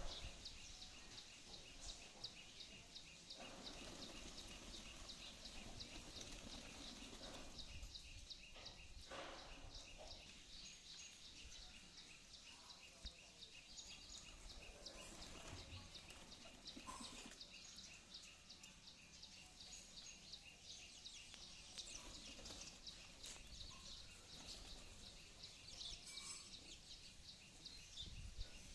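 Faint, steady, rapid high-pitched chirping, several evenly spaced pulses a second, over quiet outdoor ambience, with a few brief louder calls scattered through it.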